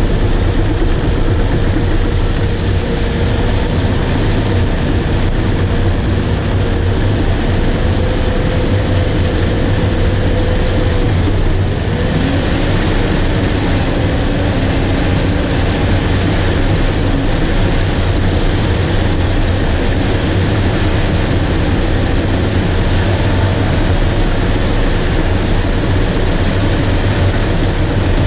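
Bulldozer's diesel engine running steadily and loudly while working, its tone dropping in pitch about twelve seconds in.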